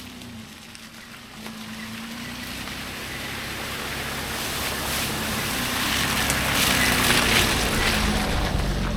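A vehicle's engine running as it drives, with a steady hum under wind and road noise, growing steadily louder.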